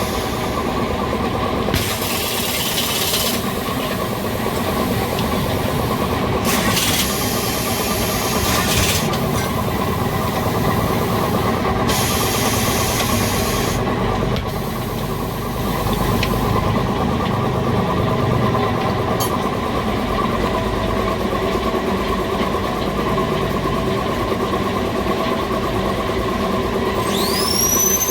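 Workshop machinery at work on a motorcycle tyre: a steady motor hum, several short bursts of hiss like compressed air, and a rising whine near the end as a motor spins up.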